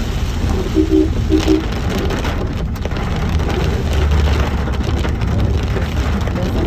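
Heavy rain on a moving car over a steady low rumble of engine and tyres, with two short beeps about a second in.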